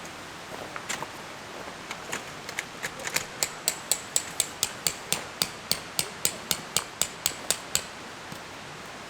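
A hammer striking in a fast, even run of about four blows a second for roughly five seconds, then stopping, after a few scattered knocks. Steady outdoor hiss underneath.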